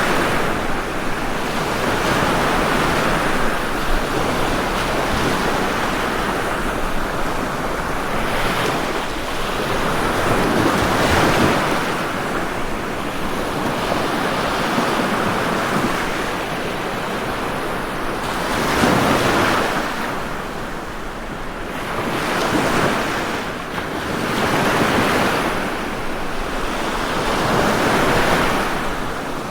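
Ocean waves breaking as surf: a continuous rushing wash that swells and ebbs with each wave every few seconds.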